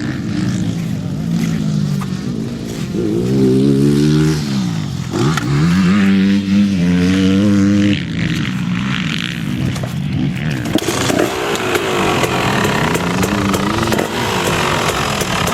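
Motocross motorcycle engines revving, their pitch repeatedly climbing and dropping as the bikes accelerate and shift; from about ten seconds in the sound turns rougher and crackling.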